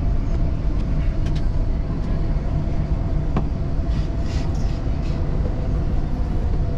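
Dubai Metro train running, heard from inside the carriage: a steady low rumble with a faint steady whine over it. A few light clicks come about a second in and again midway.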